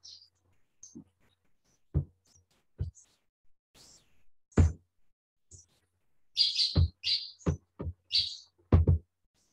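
Birds chirping in short, scratchy calls, busiest in the second half, with several dull low knocks among them, the loudest a little after four and a half seconds and near the end.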